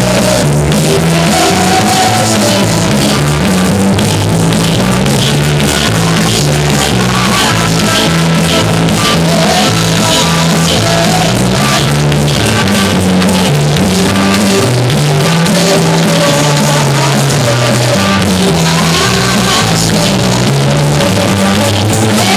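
Loud band music with a drum kit keeping a steady driving beat under a bass line that steps from note to note.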